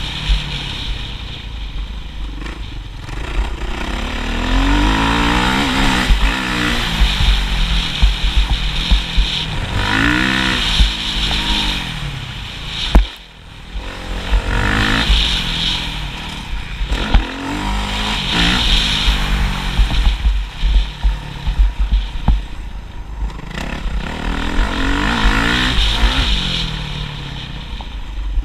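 Motocross bike engine revving up and falling back again and again, as on a rough track. The engine cuts out briefly about 13 seconds in, then picks up again.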